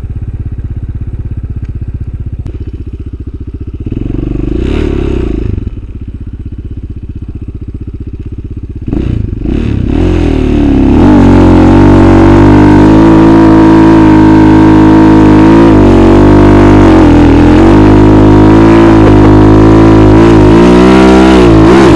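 Motorcycle engine revving with a chainsaw-like buzz: a short rev about four seconds in, then from about ten seconds in it is held at high revs, wavering, until it cuts off suddenly near the end.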